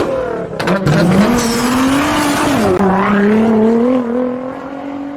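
Car engine revving hard: its pitch climbs, drops sharply a little past halfway, then holds and creeps up again before fading out.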